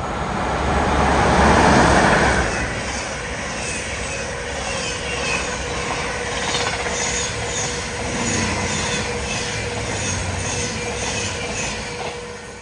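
Caledonian Sleeper train passing at speed: the front of the train goes by loudest in the first two seconds, then the carriages follow with a steady clickety-clack of wheels over rail joints, about three clicks a second, and a faint steady whine, fading away near the end.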